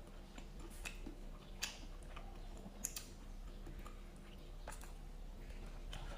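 A person eating: chewing with a few sharp clicks scattered through, over a steady low hum.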